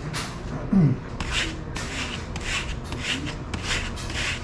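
Quick repeated rubbing strokes, about two to three a second, deburring the burred back edge of a laser-cut replacement nameplate.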